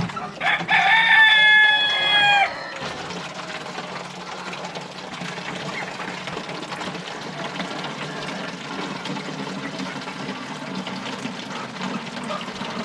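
A rooster crowing once, a loud held call of about two seconds near the start, followed by quieter farmyard background.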